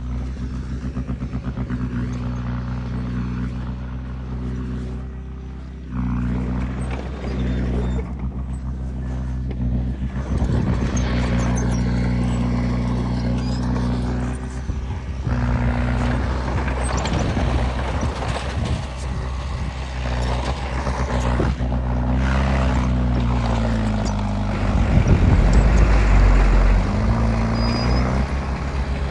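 Diesel engine of a Komatsu D20P bulldozer running steadily under load as it pushes fill. It gets louder about a fifth of the way in, and near the end its pitch dips and climbs back as the engine is worked harder.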